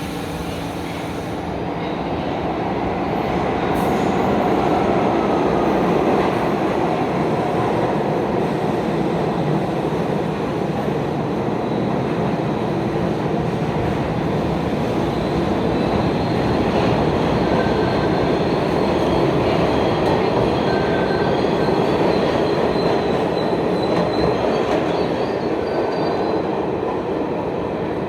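New York City subway train running through the station, a loud steady rumble of wheels on rail that builds over the first few seconds. Thin high wheel squeals come and go in the second half.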